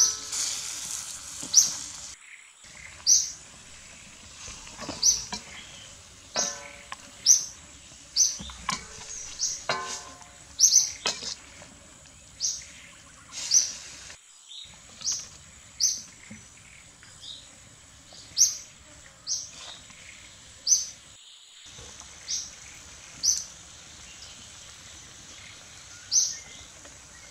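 A bird calling with short, high chirps repeated about once a second. There are a few brief scraping sounds in the first eleven seconds.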